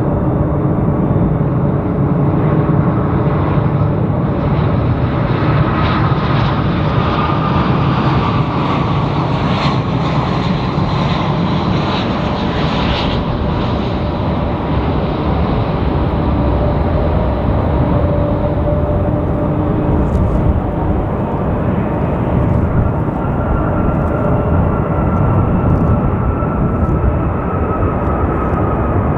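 Jet airliner on landing approach passing low overhead: steady engine rumble with fan whine tones. The hiss builds to its loudest a little before halfway and then eases off, the whine dropping slightly in pitch as the jet goes by.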